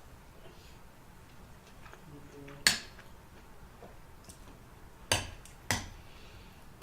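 Spoon clinking against a soup bowl: three sharp clinks, one a little under three seconds in and two close together near the end.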